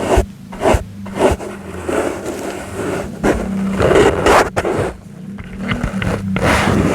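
Soft brush swept over the microphone in a string of irregular scratchy strokes, over a faint low hum.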